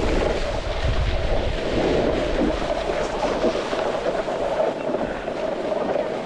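Wind buffeting the microphone while a snowboard slides over the snow, a steady rushing and scraping; the deep wind rumble eases about four seconds in.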